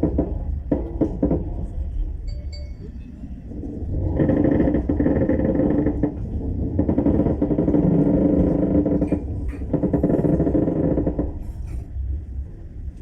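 Passenger train carriage: a steady low rumble with a few clicks near the start, growing louder in long stretches from about four seconds in.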